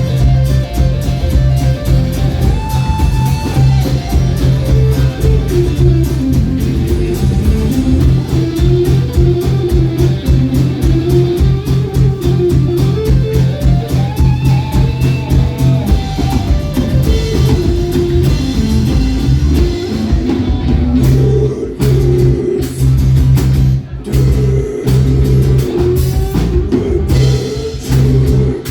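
Band music played live, instrumental: guitar melody lines over bass and drum kit. In the last several seconds the band plays short, clipped hits with brief gaps between them.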